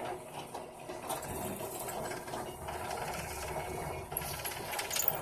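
Electric drill running steadily with some scraping as the bit works a pin hole in a knife handle, enlarging it so the brass pin fits with more clearance.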